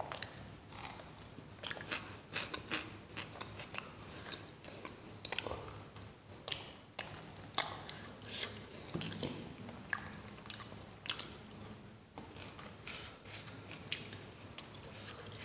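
Close-miked eating of paratha and raw onion: chewing with frequent sharp crunches and mouth clicks, and one louder sharp click about eleven seconds in.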